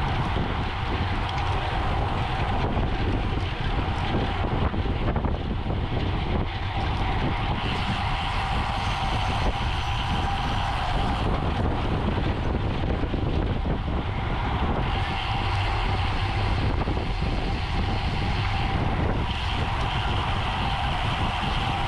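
Steady wind rush over the microphone of a camera riding on a racing bicycle at speed, mixed with the even hum of tyres on the road.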